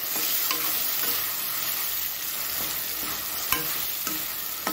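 Ground masala paste and yellow pumpkin pieces sizzling in hot oil in a steel kadai while a ladle stirs them, with a few sharp clicks of the ladle against the pan. The paste is being fried in the oil to cook off its raw smell.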